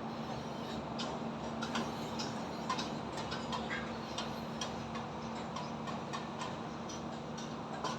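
Building construction site ambience: irregular light knocks and clinks from work on the site over a steady mechanical hum and a constant wash of highway traffic noise.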